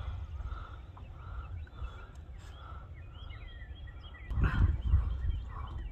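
Birds calling in the distance: a run of short calls about twice a second and some quick chirps, over a steady rumble of wind on the microphone. A louder surge of rumble comes about four and a half seconds in.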